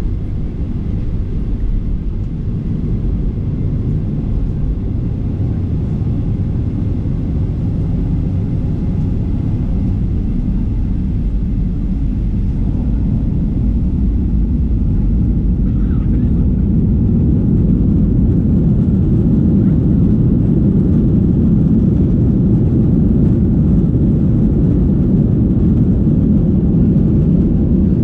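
Boeing 737-800's CFM56-7B jet engines heard from inside the cabin: a steady low rumble that slowly builds louder about halfway through.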